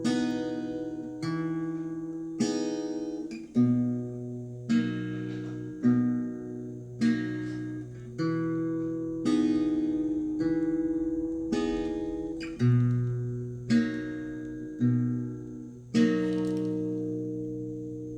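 Acoustic guitar playing single strummed chords about once a second, each left to ring and decay, with the final chord near the end held and fading out.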